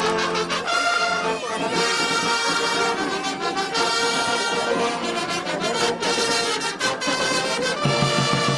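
Brass band music, with trumpets and trombones playing sustained chords over a beat.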